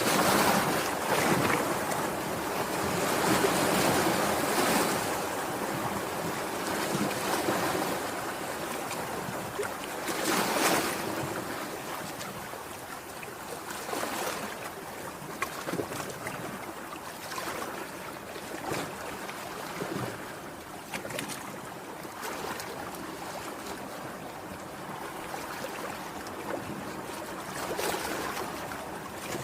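Sea waves surging and washing ashore in slow swells, louder through the first ten seconds or so and softer after, with wind buffeting the microphone.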